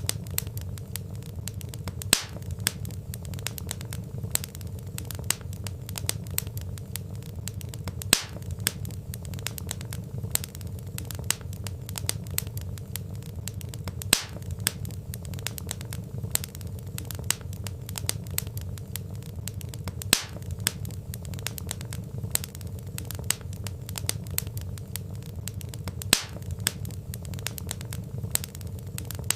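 Wood fire crackling: a steady stream of small snaps and pops from burning logs over a low, steady rumble of the flames, with a sharper, louder pop about every six seconds.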